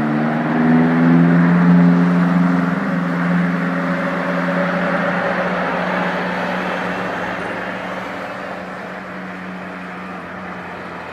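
Jet airliner passing close, its engines a loud rushing roar with a low steady hum underneath, loudest a second or two in and then slowly fading.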